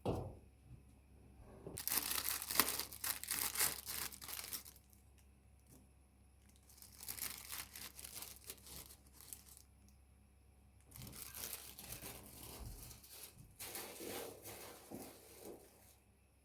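Wrapping or packaging crinkling and tearing as it is handled, in four bursts of a few seconds each, after a single knock at the start.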